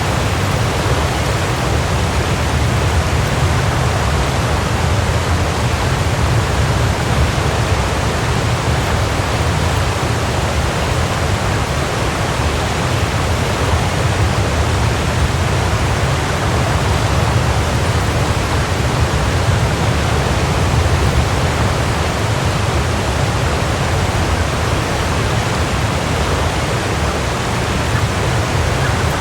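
Waterfall: a steady, unbroken rush of falling water with a deep low rumble under it.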